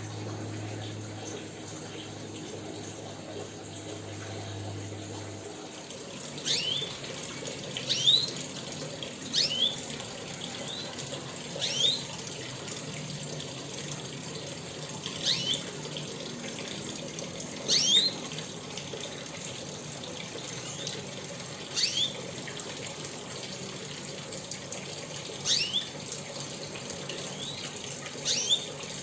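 A small pet bird giving short, sharp chirps that sweep downward in pitch, single or in quick pairs, about every two seconds, over a steady rushing noise like running water. A low hum stops about five seconds in.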